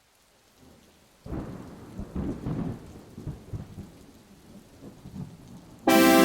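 A clap of thunder breaks in suddenly about a second in and rolls on in low surges over light rain, fading away. Near the end, music starts abruptly with sustained keyboard chords.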